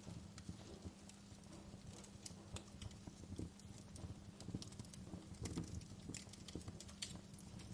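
Wood fire burning in a fireplace, crackling with irregular small pops and snaps over a faint low rumble of the flames.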